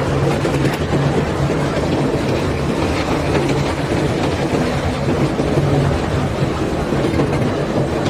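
Bulk-cargo unloading machinery running steadily at a barge: a continuous low engine hum under a dense, rattling rumble.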